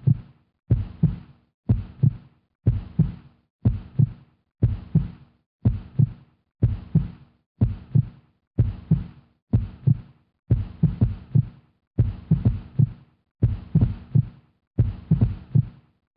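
Heartbeat sound effect: slow, steady lub-dub double thumps, about one beat a second.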